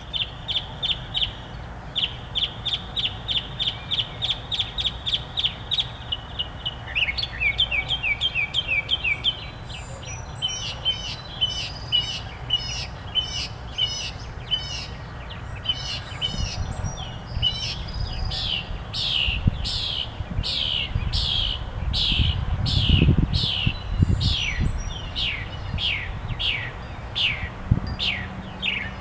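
A songbird singing a varied song: quick runs of the same high note repeated about five times a second, switching to a new phrase every few seconds, and later a long series of sharply falling notes.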